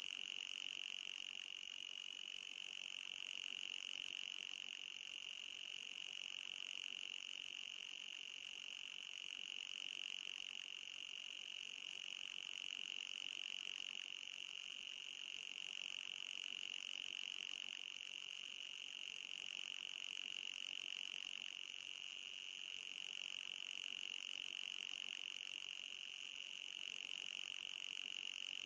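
Electronic anti-mosquito repellent sound: a steady high-pitched tone with a fainter, higher tone above it, the pitch wavering slightly.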